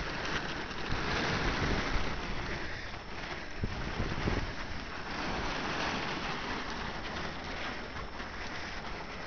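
Tarp flapping and rustling in the wind, a steady rushing noise with quick crackles through it, with wind buffeting the microphone.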